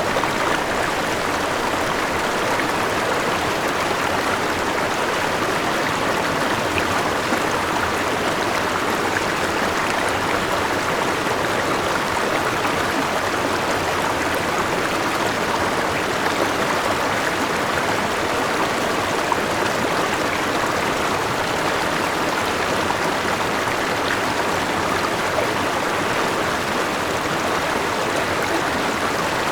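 Forest river rushing steadily over a small waterfall, a continuous even wash of water.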